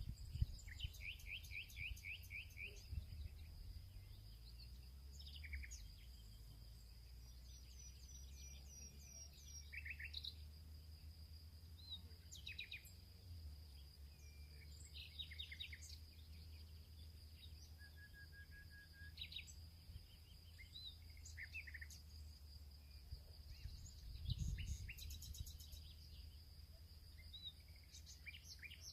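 Several wild songbirds chirping and trilling in short, scattered phrases over a steady high-pitched insect drone and a low wind rumble.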